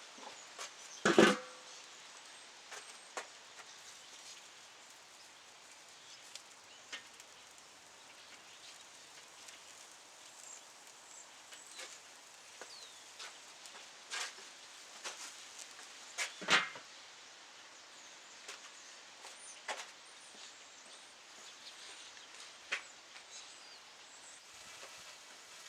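Wood campfire crackling, with scattered small snaps over a faint steady hiss. Two louder sharp cracks or knocks stand out, one about a second in and one about sixteen seconds in.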